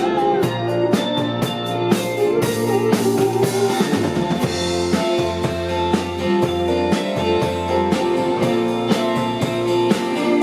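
Band playing a rock song: drum kit keeping a steady beat under held guitar and bass notes, with a cymbal wash about two seconds in.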